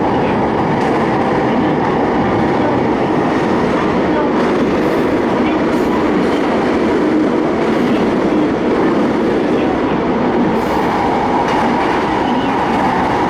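Steady running noise of an electric commuter train at speed, heard from inside the car: an even rumble of wheels on rail, with a few faint clicks scattered through it.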